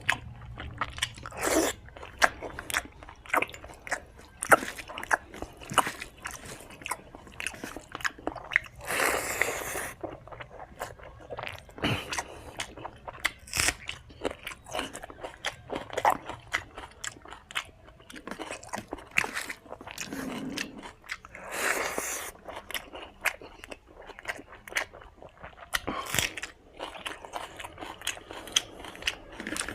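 Close-miked chewing and biting of spicy mutton fat with rice: dense, irregular wet clicks and smacks, with three longer noisy bursts spread through.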